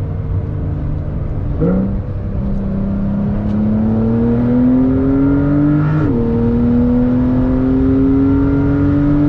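Porsche 911 Carrera 4 GTS's 3.0-litre twin-turbo six-cylinder engine pulling hard under acceleration. Its pitch climbs slowly in each gear, broken by two quick gear changes of the PDK transmission, about a second and a half in and about six seconds in.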